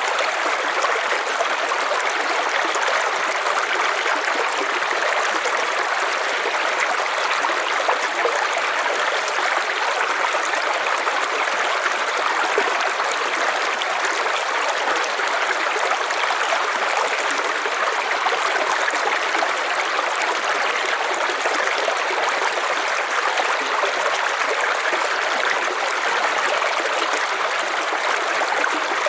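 River water flowing over stones, a steady rushing and babbling with no change in level.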